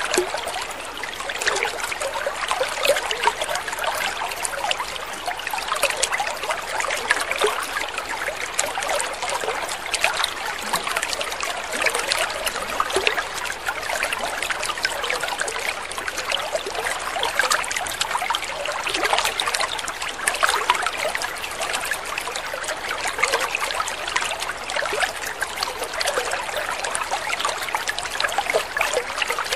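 Water trickling steadily: a continuous patter of small splashes with no pauses.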